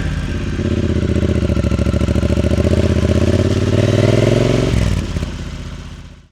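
Triumph Bonneville T100's 900 cc parallel-twin engine and exhaust running under throttle, the note rising gradually, then dropping about three-quarters of the way through and fading out at the end.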